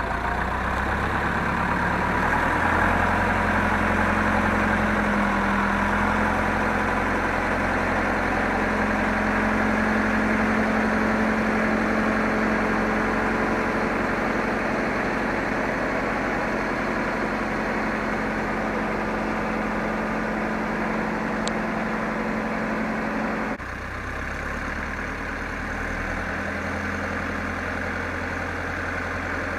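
Zetor 7745 tractor's four-cylinder diesel engine running steadily. Its pitch picks up slightly about two and a half seconds in, and it drops suddenly to a quieter level about three-quarters of the way through.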